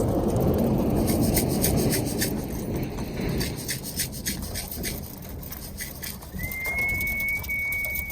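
Roller pigeons cooing at a loft trap, under a low rumble that fades over the first few seconds. A run of sharp clicks sounds through the first half. Near the end a single steady high whistle note is held for about two seconds.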